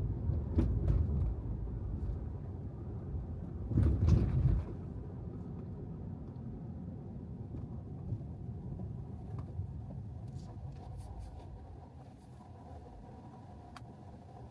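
Low road and tyre rumble of an electric Tesla Model 3 driving, with no engine note, and a brief louder surge about four seconds in. The rumble eases off near the end as the car slows.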